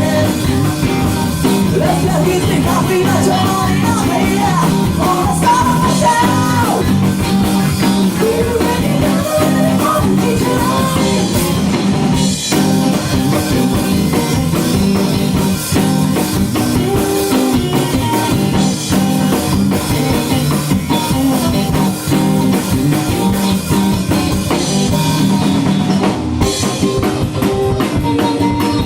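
A live rock band playing a song, with drum kit and guitars, continuous and loud.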